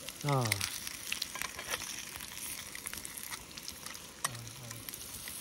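Food sizzling as it fries over a campfire: a steady hiss with a few sharp clicks scattered through it. A short, falling vocal sound is heard just after the start.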